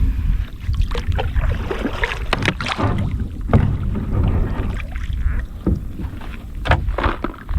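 Kayak under way on the water: splashes and knocks against the hull over a steady low rumble.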